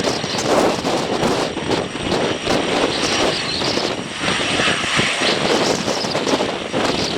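Aircraft engine noise from an airliner at the airport, mixed with gusting wind buffeting the microphone.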